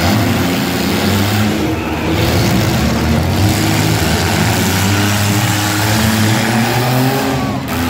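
Several demolition derby cars' engines running and revving together, loud and continuous, as the cars shove and ram one another; one revs up near the end.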